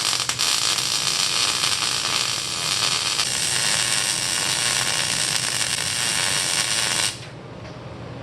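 Arc welding a bead: a steady crackling hiss that starts with a few pops and runs about seven seconds before the arc is broken and it stops abruptly.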